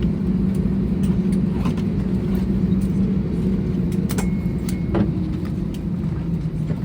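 Steady low hum of an Airbus A320neo's cabin at the gate, its air conditioning running, with scattered clicks and knocks from passengers moving about. A brief faint high beep sounds about four seconds in.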